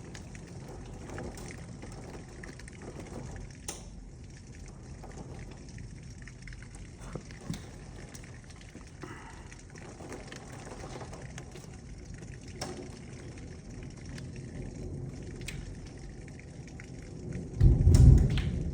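Heavy thunderstorm rain heard from inside a house: a steady hiss with scattered sharp ticks. A loud low rumble of thunder comes near the end.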